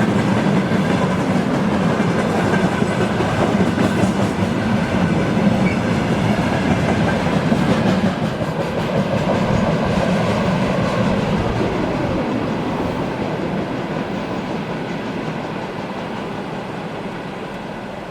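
Freight train wagons rolling past on the rails. The rolling noise is steady at first, then fades gradually over the second half as the train moves away.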